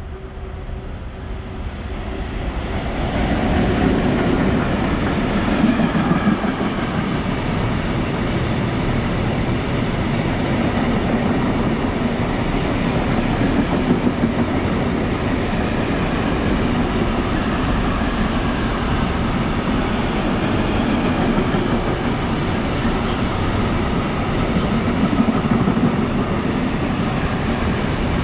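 A freight train of container wagons hauled by an ET22 electric locomotive, approaching and passing close by on the near track. The sound builds over the first few seconds, then the wagons roll past steadily and loudly.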